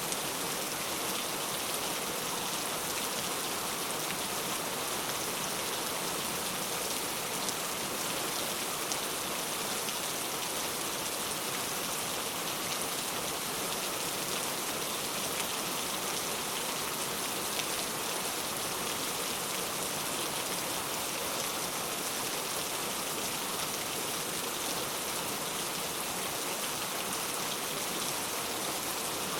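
Steady, even rain falling, a dense hiss of drops with no breaks or changes in intensity.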